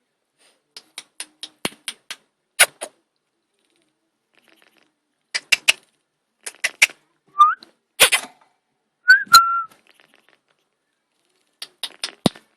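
Quaker parrot giving two short whistles, the first rising, amid quick runs of sharp clicks and taps.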